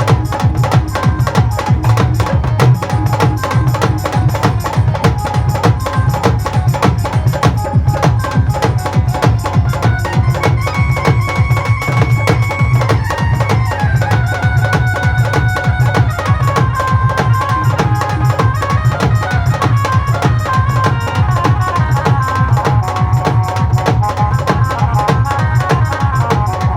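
Live band playing an instrumental devotional song: dense, fast, even percussion over a steady low beat, with a melody instrument holding long notes above it.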